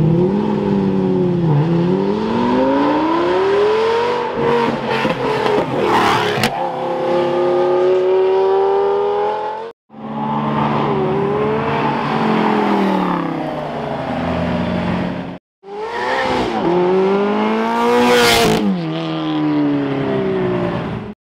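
Supercar engines accelerating hard up a hill climb road, one car after another in three short runs. The engine note climbs and drops back at each upshift. A car passes close by about six seconds in and again near the end, with the pitch falling as it goes away.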